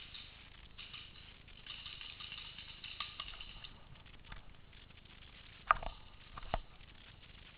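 Faint rustling, then two sharp snaps or pops a little under a second apart, a little past the middle; the first is the louder.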